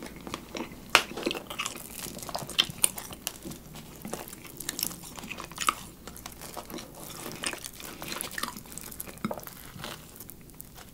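Close-miked chewing of gorgonzola pizza: a dense, irregular run of small crisp crackles and wet mouth clicks. Hands tear slices of the pizza apart at the same time.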